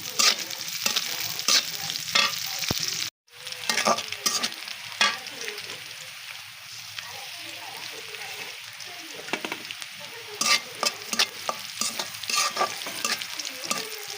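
Food sizzling in hot oil in a pan while being stirred, with repeated sharp scrapes and knocks of the spatula against the pan. The sound cuts out for a moment about three seconds in.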